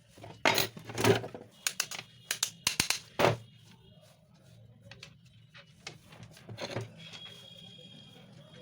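A quick series of sharp clicks and knocks from small hard parts being handled, thickest in the first three seconds and sparser after, over a faint low hum.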